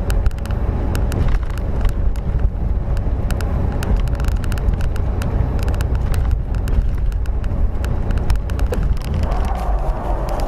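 A car driving: steady road and engine noise, with scattered small ticks and rattles throughout.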